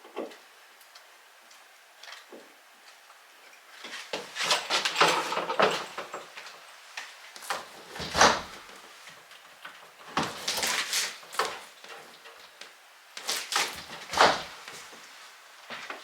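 Metal door hardware being handled and fitted to a door: knocks, clicks and rattles in several short bursts, with the sharpest knock about eight seconds in.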